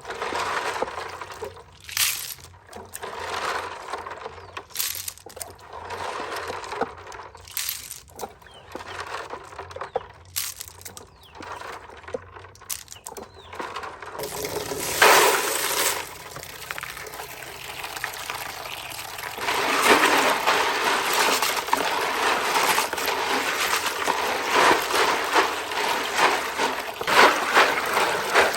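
Water splashing and pouring. Broken, irregular splashes in the first half give way to a steadier, louder stream of running or poured water from about halfway in.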